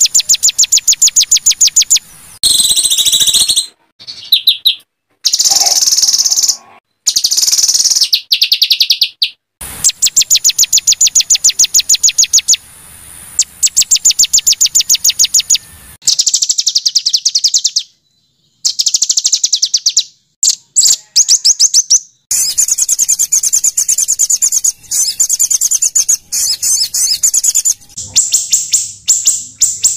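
Small songbirds calling in fast trains of high, harsh chirps and trills, many notes a second. The calls come in separate segments joined by abrupt cuts and brief silences, as in a spliced birdsong training recording.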